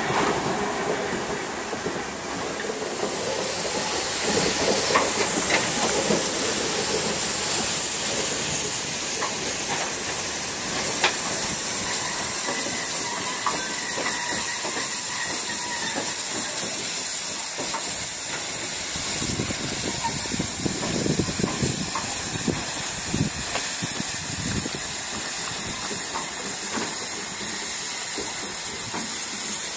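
Steam locomotive letting off steam: a loud, steady hiss that swells up about three seconds in and then holds.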